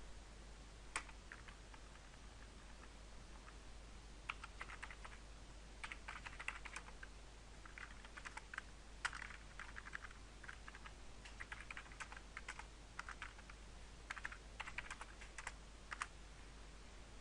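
Computer keyboard typing in short bursts of rapid key clicks, with pauses between them and a few single keystrokes.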